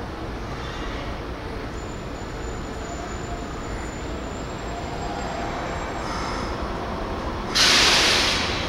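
Electric train running with a steady rumble, then near the end a sudden loud hiss of air released from its brakes that fades out over about a second.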